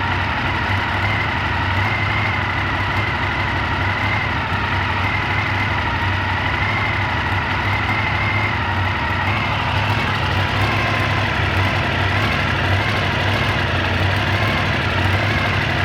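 Honda VFR400R NC21's V4 engine idling steadily, with a high wavering whistle over the engine note from the exhaust: a leak at a failed exhaust O-ring.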